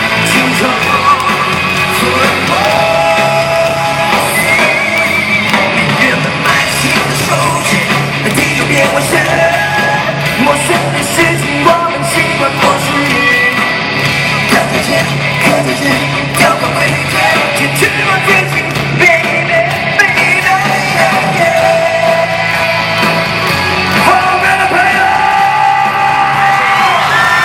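Live pop-rock band with a male lead singer, amplified through a large arena's PA, the voice held in long sung notes over the band.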